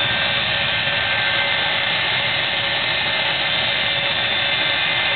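The jet engine of a 1957 Chevy jet truck running steadily. It is a rushing sound with a steady high turbine whine that neither rises nor falls.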